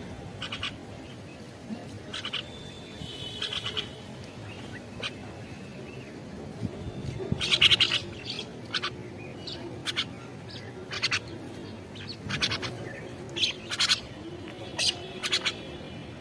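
Wild bird calling in short, sharp chirps at irregular intervals, some in quick runs of two or three, the loudest run about halfway through, over a steady low background hiss.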